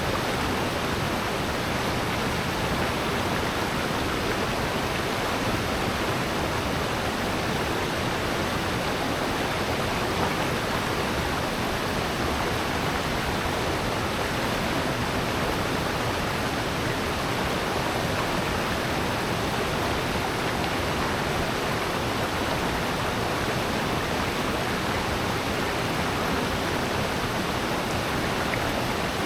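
Steady rushing of water in a rocky valley stream or waterfall, an even, unbroken hiss.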